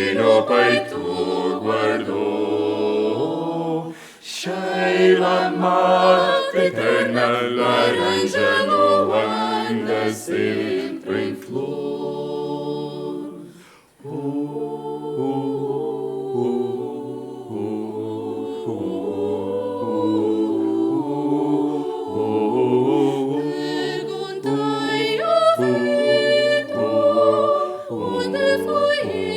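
Vocal ensemble singing a cappella in several parts, with a short break about four seconds in and another near the middle.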